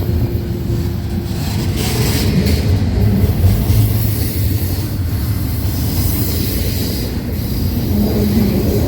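Freight train rolling past on the Tehachapi line: a steady low rumble with the rattle of cars on the rails.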